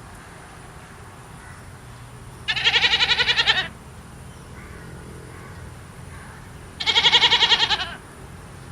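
A goat bleating twice, each call about a second long with a pulsing quaver, some four seconds apart.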